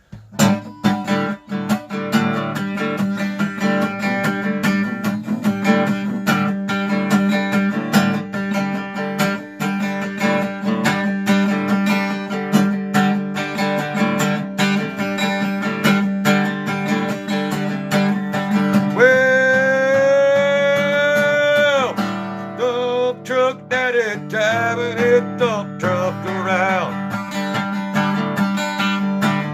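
Strummed acoustic guitar playing a country-style song intro in a steady rhythm. About two-thirds of the way through, a lead line comes in with one long held note, then a wavering melody.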